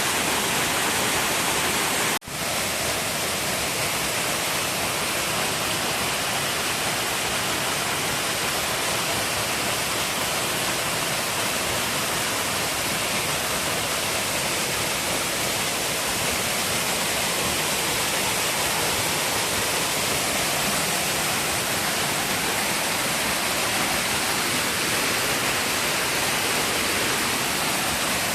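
Waterfall on a mountain river rushing steadily, an even hiss of falling water. It cuts out for an instant about two seconds in, then resumes unchanged.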